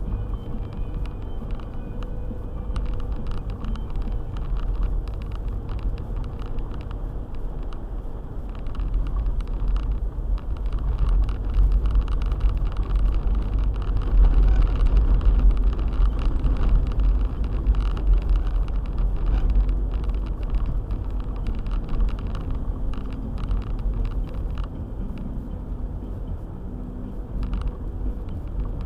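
Four-wheel-drive car driving on a snowy road: a steady low rumble of engine and tyres with many small clicks and knocks throughout, growing louder for a few seconds around the middle.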